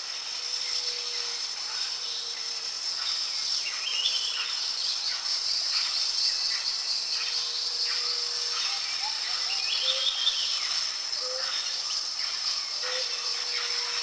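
Tropical jungle ambience: a steady high insect chorus, with birds calling in quick trills about four seconds in and again about ten seconds in.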